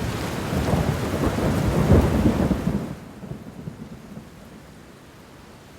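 A roll of thunder over steady rain. The thunder is loudest about two seconds in and dies away about a second later, leaving the even hiss of the rain.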